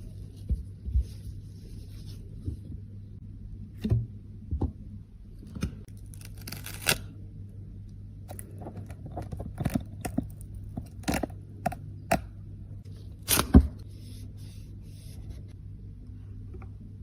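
Scattered sharp clicks and taps with a few short scrapes from hands working on cosmetics and their small cases, over a steady low hum. The loudest tap-and-scrape comes about thirteen seconds in.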